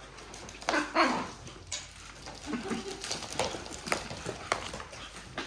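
A small dog, a Pomeranian, making a few short vocal sounds, with light clicks and taps in between.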